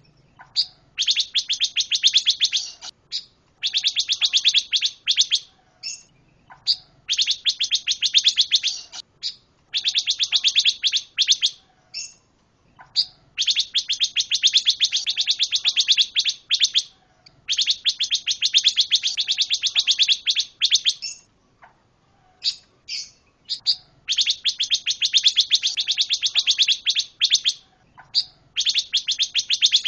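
A pancawarna songbird singing in long, very rapid trills of two to three seconds each, repeated about every four seconds, with short single notes between them.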